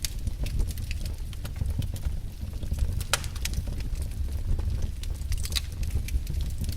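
Wood fire burning in a fireplace: logs crackling and popping at irregular intervals over a steady low rumble of the flames, with one louder pop about three seconds in.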